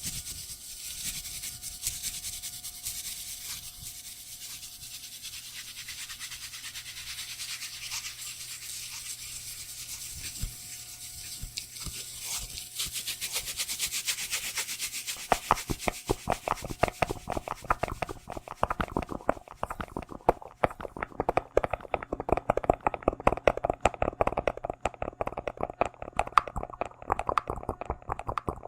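Close-miked ASMR trigger sounds: a steady bright scratching or brushing hiss, which gives way about halfway through to a dense run of rapid, louder clicks and taps.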